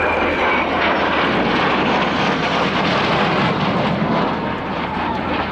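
F-16 fighter jet's engine running loud as it flies its display, a steady rushing noise with a faint whine that dips slightly in pitch.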